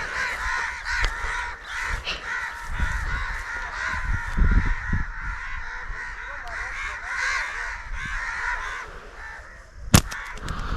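Many birds calling over one another in a steady chattering chorus, with a single sharp crack near the end.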